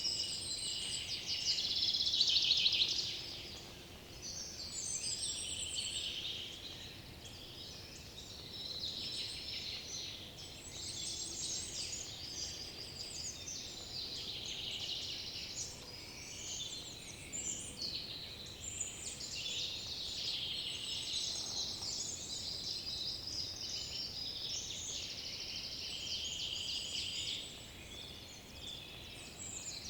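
Chorus of many songbirds singing at once, with overlapping chirps and trills, loudest about two seconds in.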